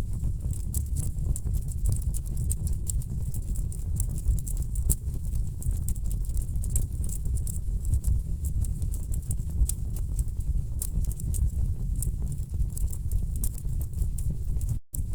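Wood fire crackling in a fireplace: dense, irregular pops and snaps over a steady low rumble of burning logs. The sound cuts out for a split second near the end.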